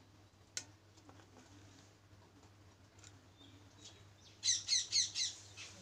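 A bird chirps a quick run of about five short descending notes about four and a half seconds in, the loudest sound here. A single sharp click comes just after half a second in, over a faint steady low hum.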